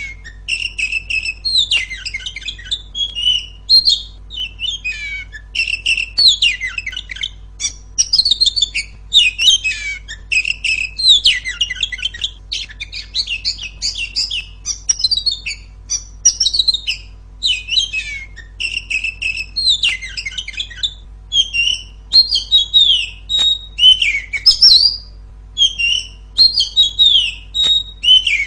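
Female oriental magpie-robin singing loud, varied phrases of sweet whistles and chirps in quick succession, broken by short pauses.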